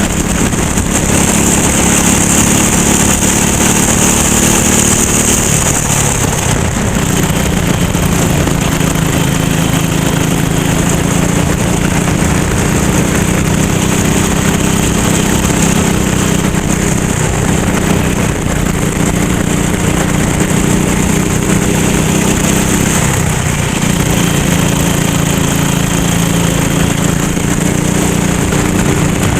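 Kart engine running hard at racing speed, its pitch dipping briefly three times and climbing back up.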